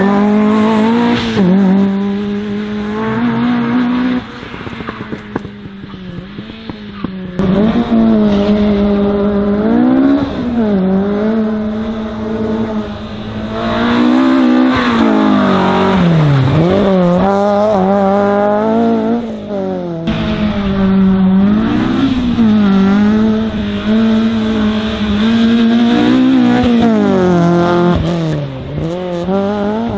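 Race car engine on an autoslalom run, revving up and dropping back again and again as it accelerates and brakes between the cones, with a quieter spell about five seconds in.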